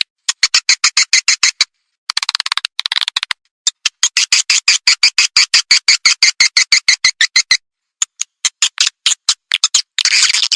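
Recorded swiftlet calling sound, the lure call played through tweeters in swiftlet houses: rapid trains of sharp high chirps, about eight to ten a second, broken by short pauses and by buzzy chattering phrases, one early on and one near the end.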